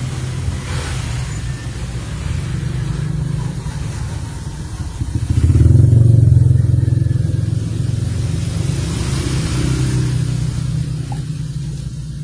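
A low, steady engine drone that swells louder for a couple of seconds about five and a half seconds in, then eases off.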